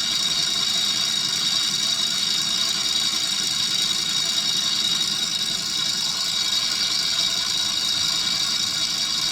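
Milling machine running steadily, a high whine over a low hum.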